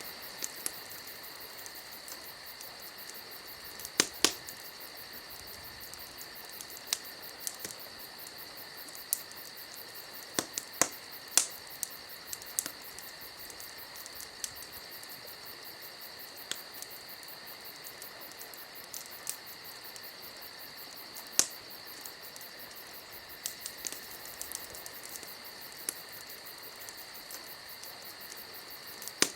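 A steady high cricket-like chirring runs throughout, over irregular sharp crackles and pops, typical of a campfire burning. A few of the pops are loud: about four seconds in, around eleven seconds, and about twenty-one seconds in.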